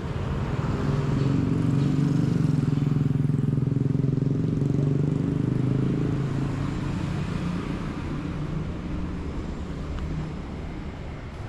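A motor vehicle's engine running close by as a steady low rumble, loudest in the first half and then slowly fading away.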